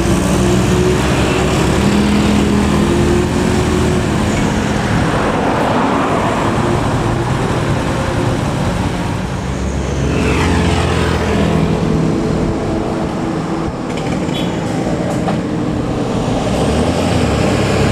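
Vehicle engines running on the road with steady traffic noise. About ten seconds in, one engine's pitch rises and falls as it passes or shifts.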